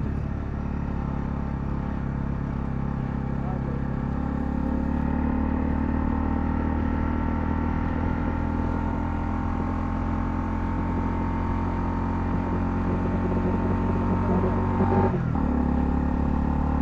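Honda CL250's single-cylinder engine running steadily under way, heard from the bike. Its note breaks off briefly near the end, then picks up again.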